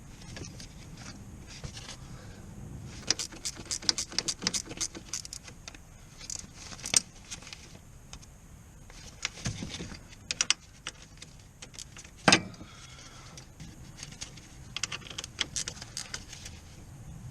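Metal tools and parts clinking and rattling in irregular clusters of sharp clicks, with one louder clunk about twelve seconds in.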